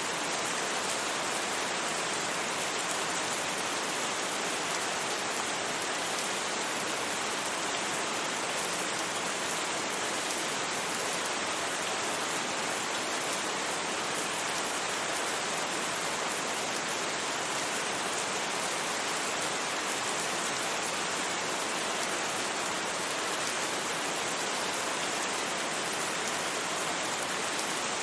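Steady rain, an even hiss that does not change, with no single drops or thunder standing out.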